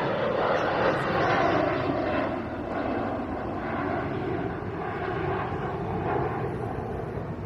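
Jet airliner passing overhead, its engine noise loudest at the start and slowly fading away.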